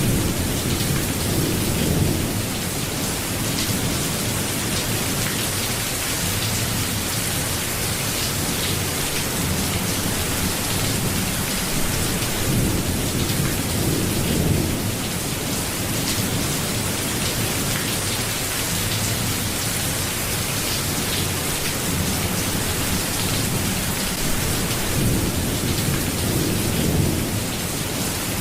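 Steady rain, with a low rumble swelling and fading three times: near the start, around the middle and near the end.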